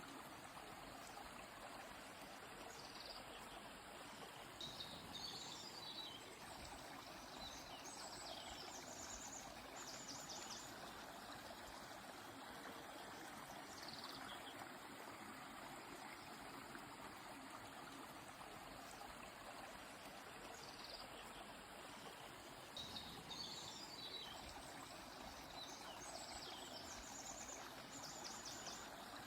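Steady rush of a flowing stream, with a songbird calling high chirps and short trills in two spells.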